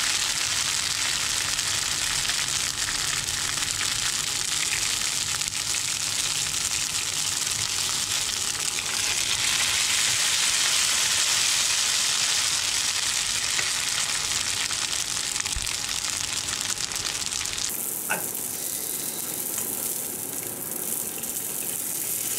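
Hủ tiếu rice noodles frying in hot oil in a pan: a steady, dense sizzle that is loudest midway and turns quieter and duller near the end.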